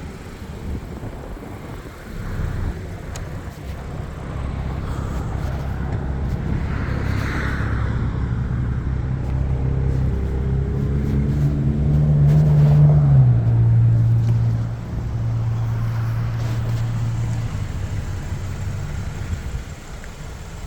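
Motor vehicle engine running close by: a steady low hum that builds in a couple of seconds, climbs briefly in pitch and loudness a little past halfway, then drops to a lower steady note and fades away near the end.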